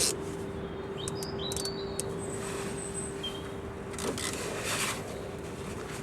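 Birds chirping with short high calls and whistles, over a steady low hum, with a few sharp clicks and a couple of brief scraping or rubbing sounds around four and five seconds in.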